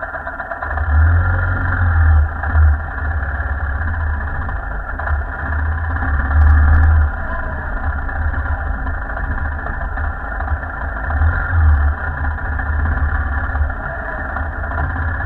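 Royal Enfield Himalayan's single-cylinder engine running steadily as the motorcycle rides along a dirt track. Low rumbles buffet the microphone several times.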